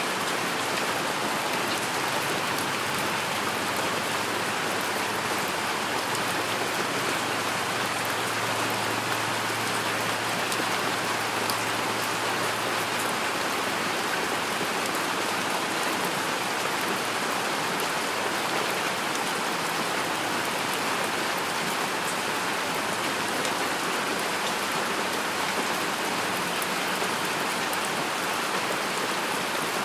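Heavy rain falling steadily, a dense, even patter of drops with no pauses or changes.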